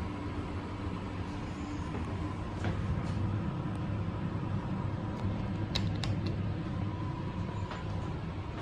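Passenger lift car travelling down between floors: a steady low hum of the ride, with a few light clicks about six seconds in.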